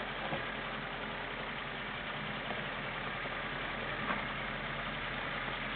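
Lada Niva's four-cylinder engine running steadily at low revs, with a few faint knocks.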